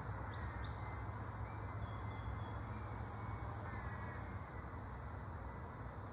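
Small birds chirping: a quick run of short, high-pitched notes and trills in the first two or three seconds, then fading out, over a steady low background rumble.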